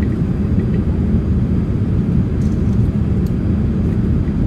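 Steady low rumble of a Boeing 787 airliner in flight, heard inside the passenger cabin: engine and airflow noise.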